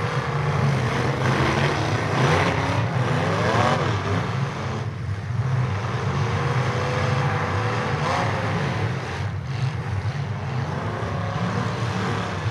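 Several demolition derby cars' engines running at once, their pitch rising and falling as drivers rev and back off.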